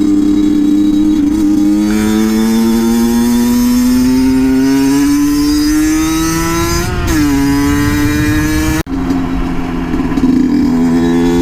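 A 50cc two-stroke motard motorcycle (HM Derapage RR 50) is under way, its engine note climbing steadily for several seconds as it accelerates, then dropping sharply about seven seconds in. A short click comes near nine seconds, and the engine then runs on at a steady pitch.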